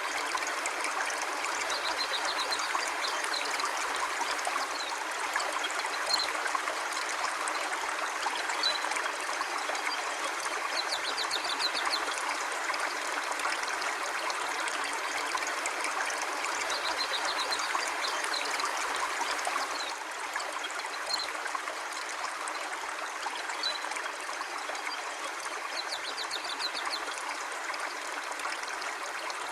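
River water flowing steadily, with short faint high chirps every few seconds.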